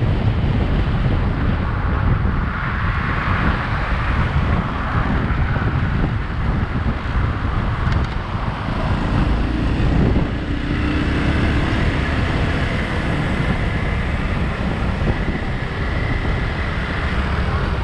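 Motorcycle ride through city traffic: wind buffeting the microphone over a steady low rumble of engine and road noise.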